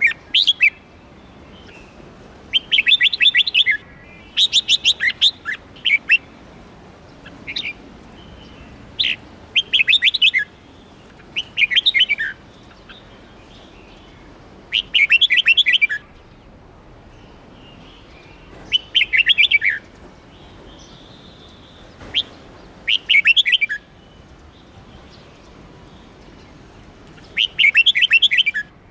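Red-whiskered bulbul singing: short phrases of quick, bright notes, each about a second long, repeated every few seconds, with single short call notes between them.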